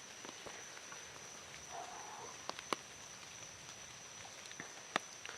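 Quiet outdoor evening ambience: a steady high insect drone over a faint hiss, with a few sharp ticks, the loudest about five seconds in.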